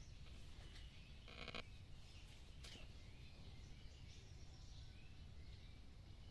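Quiet outdoor background: a low rumble with faint bird chirps, and a brief buzzy sound about a second and a half in.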